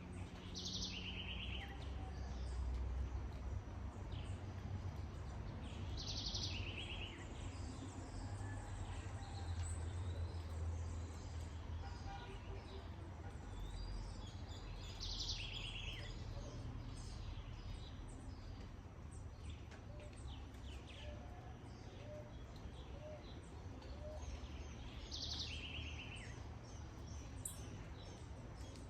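Rain ambience with a steady low rumble underneath, while a bird repeats a short two-part call four times, about every nine to ten seconds: a high note followed by a lower rapid trill. Fainter chirps sound in between.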